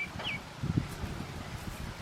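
Pekin duckling peeping: two short, downward-sliding peeps right at the start, followed by soft low rustling and bumping about three quarters of a second in.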